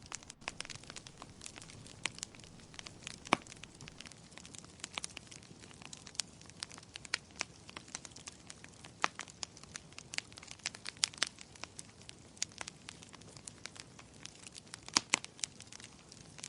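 Wood fire crackling in a fireplace: frequent irregular pops and snaps over a soft hiss, with the sharpest snaps about three seconds in and near the end.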